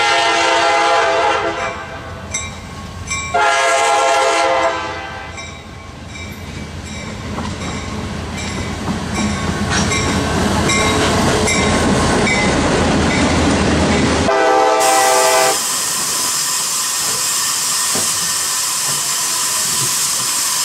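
Diesel freight locomotives sounding a multi-note air horn in two long blasts, then the rumble of the engines and wheels clicking over rail joints growing louder as the train passes, with one more short horn blast. About fifteen seconds in, a steady steam hiss from a 2-6-0 steam locomotive's cylinders takes over.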